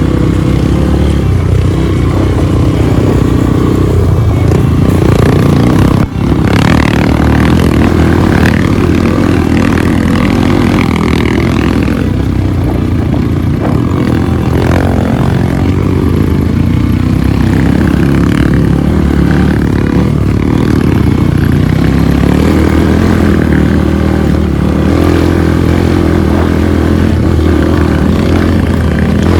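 Trail motorcycle engine running under load, its pitch rising and falling as the rider works the throttle, with a brief dip about six seconds in.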